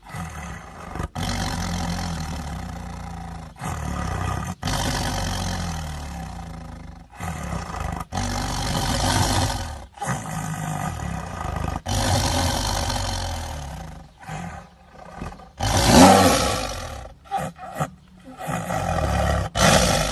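Tiger roaring: a string of separate calls cut one after another with abrupt breaks between them, the loudest about four fifths of the way through.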